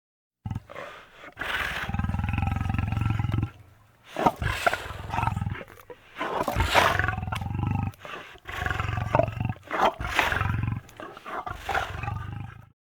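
Lion roaring: a series of deep roars and grunts with short breaks between them, the longest about a second in, lasting about two seconds. The recording starts and cuts off abruptly.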